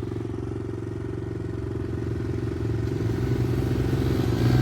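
110cc pit bike engine running at a steady note, growing louder over the last second or two.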